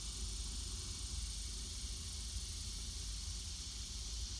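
Steady background hiss with a low hum underneath; no distinct sounds stand out.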